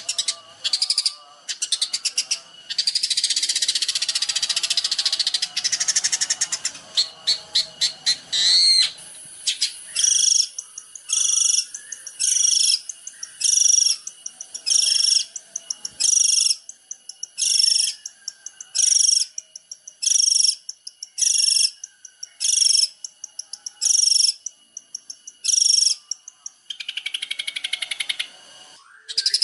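Songbird song on a training recording for long-tailed shrikes: a fast, high chattering trill with a harsh buzzy stretch, then a short high phrase repeated about every second and a half, some fifteen times.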